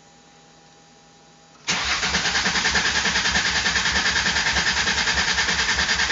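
3.0 L Ford V6 in a 1999 Mercury Cougar being cranked over by its starter without firing: a fast, even pulsing that starts suddenly about two seconds in and carries on. The engine turns over but won't start after the engine swap and the rewiring of its new injectors.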